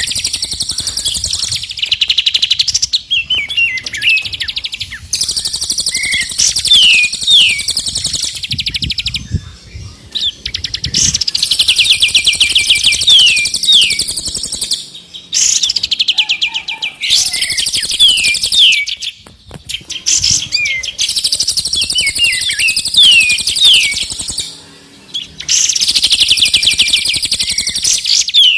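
Songbird masteran track, a mix of three birds' songs, playing in a repeating loop. A rapid, high buzzing trill lasting a second or more is followed by several quick downward-sliding whistles, and the phrase comes round about every four to five seconds.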